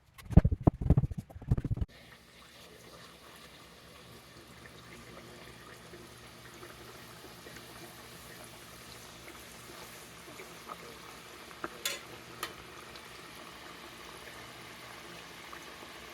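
A few loud knocks from a pot being handled, then the soft, steady sizzle of oil heating in a Dutch oven, slowly growing louder, with a couple of small clicks about twelve seconds in.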